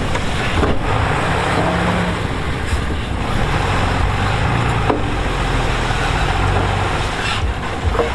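Heavy diesel earthmoving machinery running steadily, with a couple of short sharp knocks.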